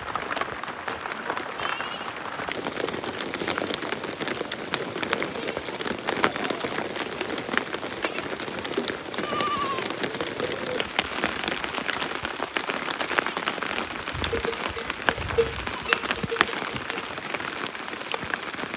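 Steady rain pattering, a dense hiss of fine drops. A sheep bleats a couple of times, about halfway through and again near the end.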